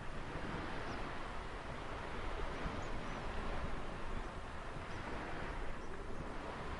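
Ocean surf washing in a steady hiss that swells and eases, with a few faint, short, high chirps above it.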